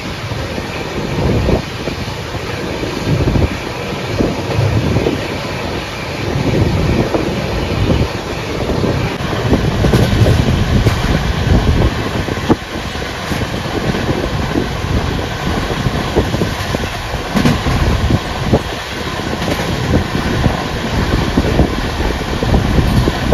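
Express passenger train running at about 99 km/h, heard at an open coach door: a steady rumble of wheels on rail with a few sharp clicks over rail joints, and wind buffeting the microphone.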